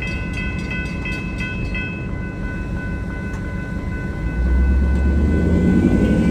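Railroad grade-crossing warning bell ringing rapidly, about three strikes a second, then a steady ring; from about four seconds in, the low rumble of an approaching freight train grows louder.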